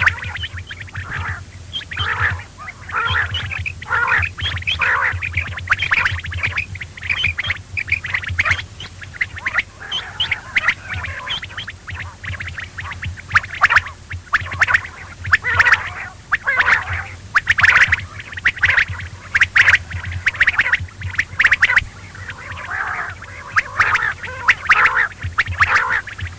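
Quail calling over and over in quick, overlapping phrases, like a recorded quail lure call, over a steady low hum.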